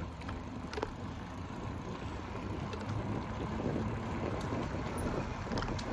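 Carrera Vengeance e-bike being ridden along a path: steady low rumble of tyres rolling and wind on the camera microphone, with a few faint clicks.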